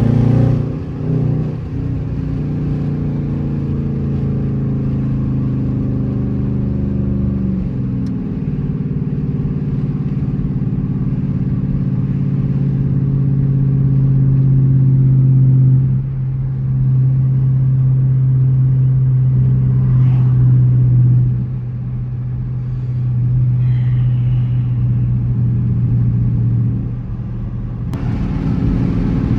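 Dodge Charger R/T's 5.7-litre HEMI V8 pulling under way, a steady engine drone whose pitch falls about eight seconds in, then builds slowly until it drops off about sixteen seconds in.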